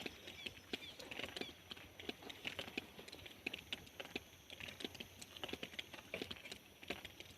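Rain: many irregular drops tapping close by, a quick uneven patter.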